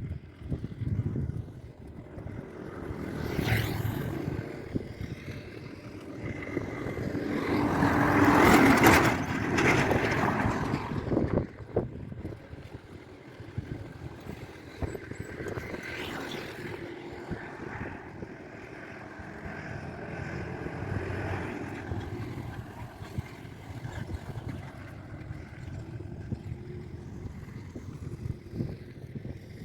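Highway traffic: vehicles driving past, with one loud pass-by that builds to a peak about eight to nine seconds in and fades away, and smaller passes before and after.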